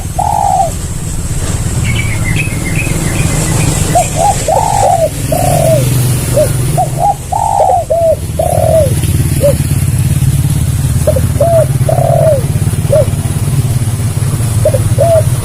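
Spotted dove (tekukur) cooing: repeated short phrases of rounded, arching coo notes. A small bird chirps briefly about two seconds in, over a steady low rumble.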